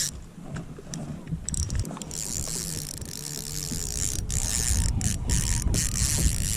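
A small mechanism clicking and whirring, over a low rumble, with a few sharp clicks.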